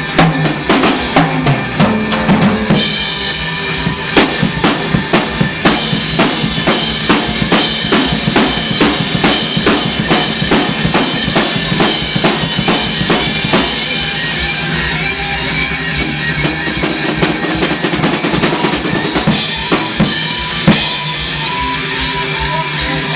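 Drum kit played over rock music. A fast, even run of drum hits fills the middle, then the hits thin out under held chords, with one heavy hit near the end.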